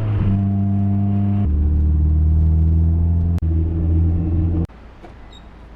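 Mazda Miata's four-cylinder engine and exhaust pulling under acceleration. Its note drops at an upshift about a second and a half in, then climbs slowly again, and the sound cuts off abruptly near the end.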